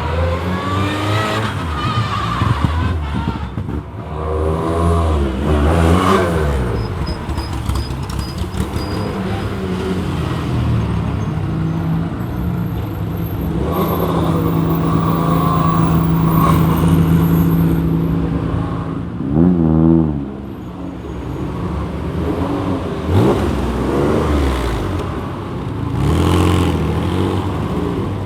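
Rally car engines revving and driving past one after another, rising and falling in pitch through the gears. One runs at a steady pitch for a few seconds near the middle, then a car passes close with a sharp drop in pitch.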